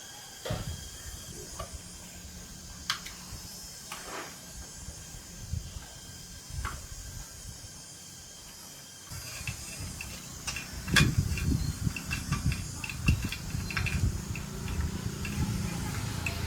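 Hand work on chainsaw parts: scattered sharp clicks and knocks over a steady low hiss. The clicks grow busier and louder after about nine seconds.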